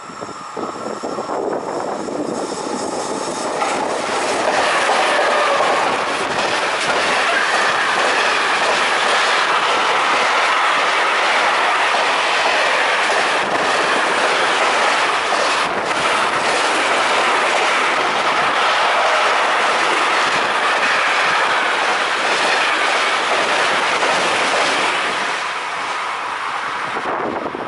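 Intermodal freight train hauled by E412 and E405 electric locomotives passing at speed, its wheels running on the rails. The sound builds over the first few seconds, holds steady through most of the pass, and fades away near the end as the last wagons go by.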